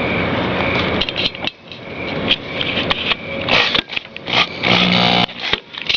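Cordless power screwdriver running in several short bursts, driving the engine's bolts down tight, with a brief steady motor whine near the end.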